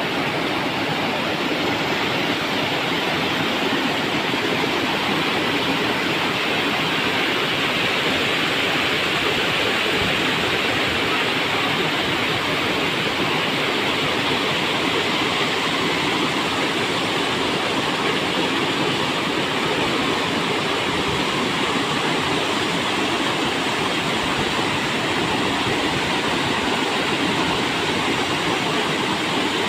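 River water rushing and splashing over rocks in a steady, unbroken roar.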